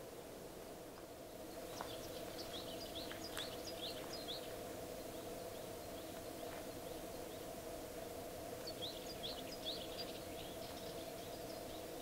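Small birds chirping in two bursts of quick, high chirps, one about two seconds in and another about three-quarters of the way through, over a steady low hum and a faint hiss.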